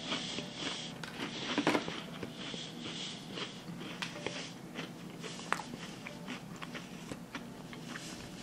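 Close-up crunching and chewing of a crisp maple leaf crème sandwich cookie, loudest about a second and a half in, with small irregular cracks through the rest.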